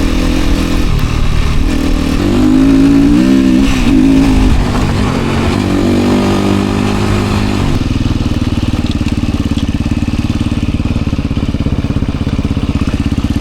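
Enduro dirt bike engine running close by, its revs rising and falling for a few seconds, then settling into a steady, lower running note about eight seconds in.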